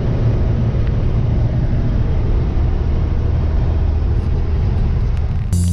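Truck towing a trailer driving along, its engine and road noise making a steady low drone. Music with a beat starts suddenly near the end.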